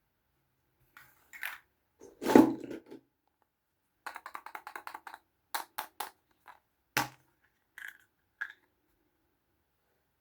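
Small plastic toy pieces handled by hand, clicking and tapping, with a louder crunch about two seconds in and a quick run of small rattling clicks about four seconds in.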